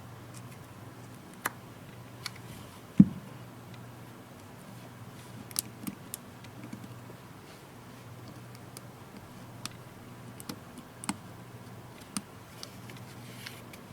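Light, scattered clicks and taps of small tablet parts and tools being handled during repair, with one louder knock about three seconds in, over a low steady hum.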